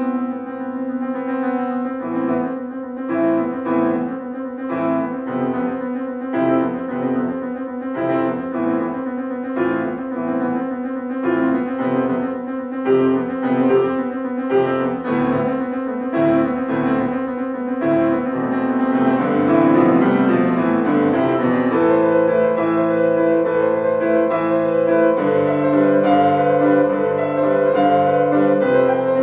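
Solo piano played by a young child: a melody of short notes over long-held low notes, growing fuller and louder about two-thirds of the way through.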